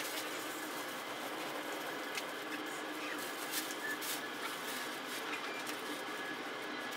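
Steady running noise of a train at a station, sped up to double speed, with faint steady tones and scattered clicks over an even hiss.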